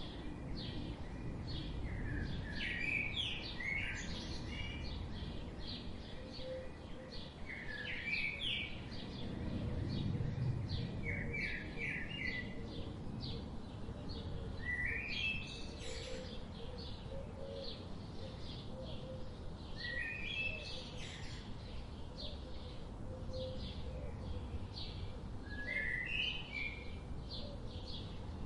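Several birds chirping and singing, one repeating a short phrase of quick stepped notes every few seconds among many brief high chirps, over a steady low background noise.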